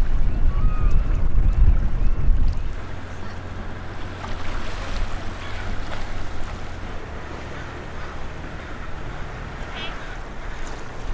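Sailboat's engine running steadily at low revs, with wind buffeting the microphone for the first couple of seconds. A few bird calls sound over it, with a quick run of chirps near the end.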